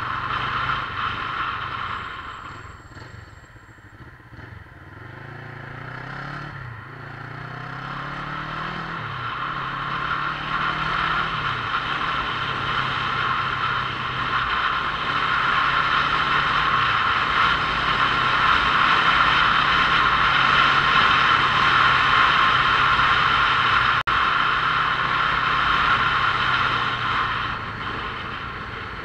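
Motorcycle being ridden, its engine pulling up through the gears with several climbs and drops in pitch about a quarter of the way in, then running steadily as the speed and the rush of wind noise build.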